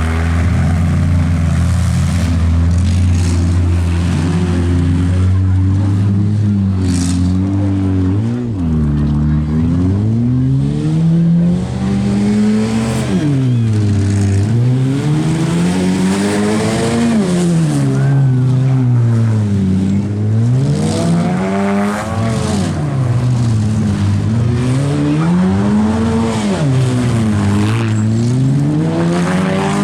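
Demolition derby compact car's engine, held at a steady pitch for several seconds, then revving up and down again and again, about every two seconds.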